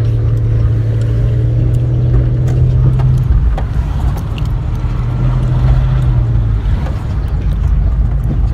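Car driving, heard from inside the cabin: steady engine and road rumble with a low hum that fades and returns twice.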